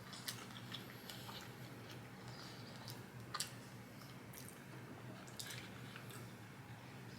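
Mouth sounds of a person eating: quiet chewing with scattered wet smacks and clicks, over a low steady hum.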